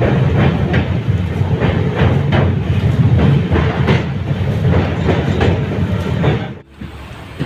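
Passenger train running at speed, heard at an open coach door: a steady rumble with wheels clattering over rail joints in quick groups of two or three. About six and a half seconds in the sound drops off abruptly to a much quieter rumble.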